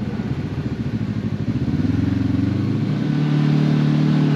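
Side-by-side UTV engine running as it drives the trail, with a fast low pulsing at first. About three seconds in, the engine note steps up and holds steadier and a little louder.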